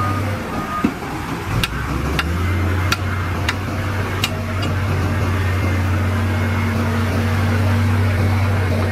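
A heavy diesel engine of earthmoving equipment runs with a steady low drone that dips briefly about half a second in. A last reversing beep sounds near the start, and five sharp knocks follow, about two thirds of a second apart, between about one and a half and four seconds in.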